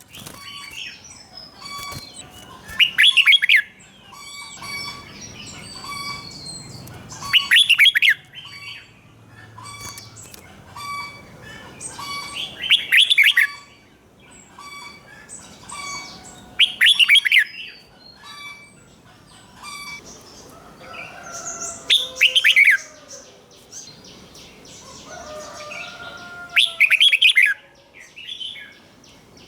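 Red-whiskered bulbul singing: six loud, short phrases at intervals of about four to five seconds, with softer chirps and short repeated notes between them.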